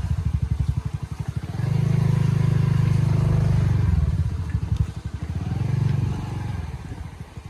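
Motorcycle engine running, its throttle opening and closing. Fast low pulsing at lower revs alternates with steadier, louder stretches twice.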